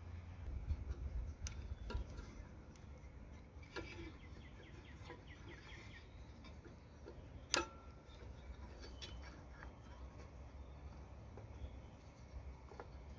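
Faint light clicks and ticks of small handling noises over a low steady rumble, with one sharper click about seven and a half seconds in and a few faint chirps around four seconds in.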